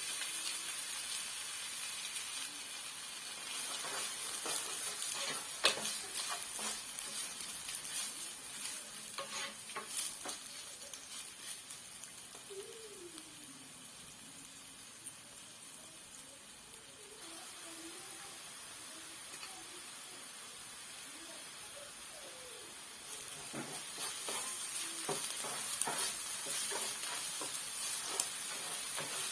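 Food sizzling in hot oil in a pan while being stirred, with a steady high sizzle and scattered clicks and scrapes of the utensil against the pan. The sizzle dies down for a few seconds near the middle and picks up again later.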